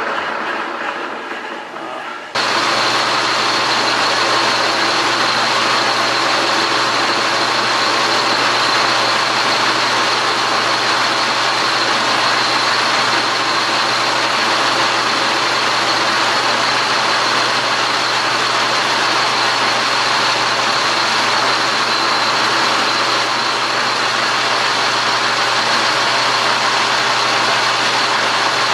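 Metal lathe switched on about two seconds in, then running steadily with a constant high whine and a low hum.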